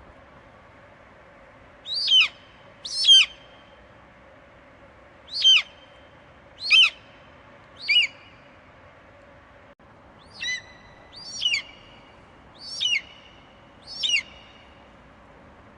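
Eagle screeching: nine short, high-pitched calls, each falling sharply in pitch, spaced one to two seconds apart over a faint steady hiss.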